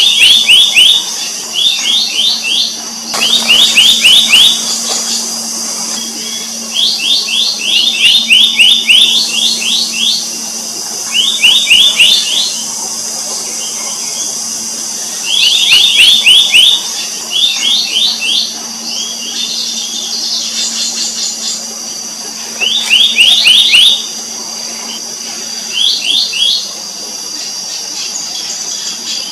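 Black-naped monarch calling: bursts of quick, sharp, rising whistled notes, several to a burst, repeated every one to three seconds. A steady high background hiss runs underneath.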